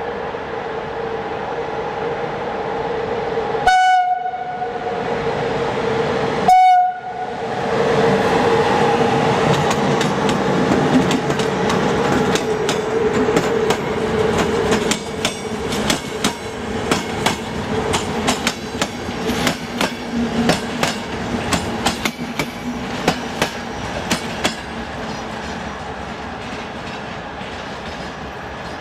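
Locomotive-hauled passenger train moving off: two short horn blasts a few seconds apart, then a steady running hum and a rapid clatter of wheels over rail joints and points that thins out near the end.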